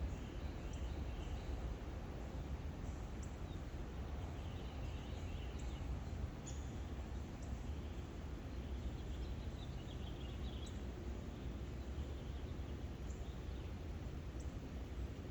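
Faint, scattered bird chirps over a steady low background noise.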